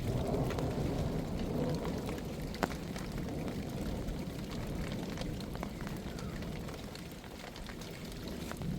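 Heavy rain falling steadily, with many sharp taps of drops striking a surface and one louder tap a little under three seconds in.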